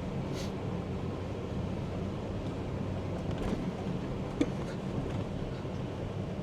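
Kubota tractor engine running steadily while being driven, with wind noise on the microphone.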